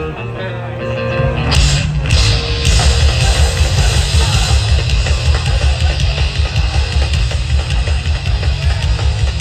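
Live heavy band playing loud: held guitar notes, then drums, cymbals, bass and distorted guitars come in together about a second and a half in and pound on.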